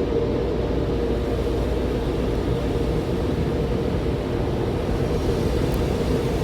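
MacNeil car wash tunnel equipment running: a steady mechanical roar with a constant hum.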